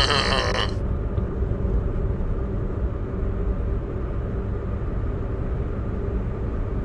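Steady low rumble of a car driving, with a brief loud pitched sound in the first second.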